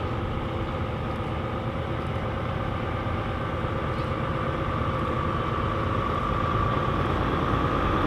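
Diesel truck engine running steadily, growing gradually louder toward the end.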